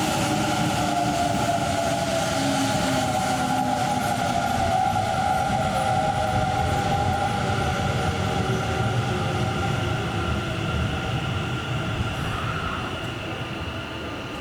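Kintetsu electric commuter train in the station, its traction motors whining in several tones that slowly fall in pitch over the rumble of the wheels, as a train slowing down would; the sound eases off near the end.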